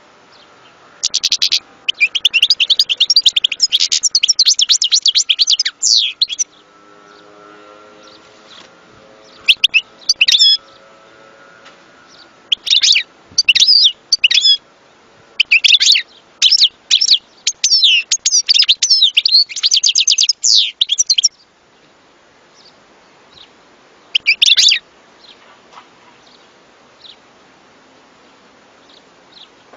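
European goldfinch singing: bursts of fast, high twittering and trilled phrases, the longest running several seconds, separated by short pauses.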